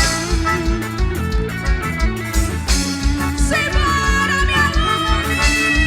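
Upbeat band music for a quadrilha junina dance: a lead melody over a steady bass-drum beat of about three thumps a second.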